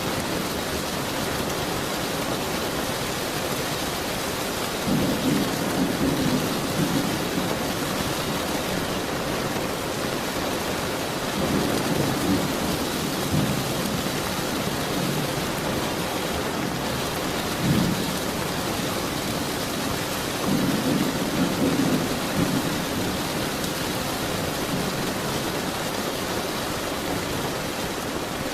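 Steady heavy rain with thunder rumbling several times, low rolls swelling up over the hiss of the rain.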